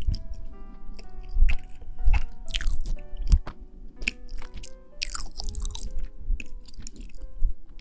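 Close-miked ASMR trigger sounds: irregular crackling, crunching and rustling bursts over soft background music with held tones.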